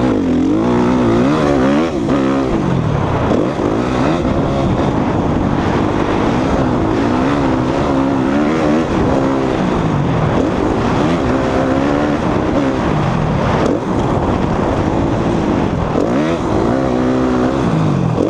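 Suzuki RM-Z250 motocross bike's single-cylinder four-stroke engine being ridden hard, revving up and dropping back over and over as the rider works the throttle and gears, its pitch rising and falling every second or two.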